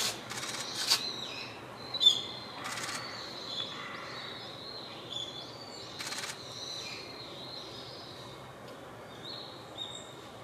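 Azure-winged magpies calling with many short high notes, some sliding down. Several brief rushing noises break in near the start, about three seconds in and about six seconds in.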